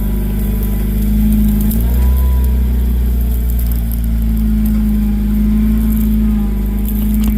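Off-road 4x4's engine running steadily while driving, its note changing and getting heavier about two seconds in.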